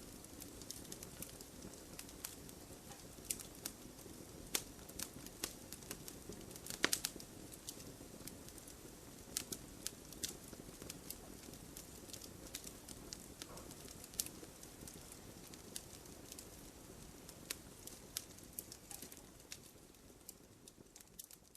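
Wood fire crackling: irregular sharp pops and snaps of burning firewood over a soft steady hiss of the flames, growing quieter toward the end.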